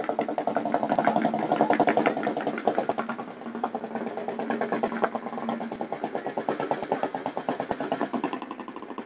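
Čechie (Böhmerland) vintage motorcycle engine idling, with a steady rapid chug of firing pulses.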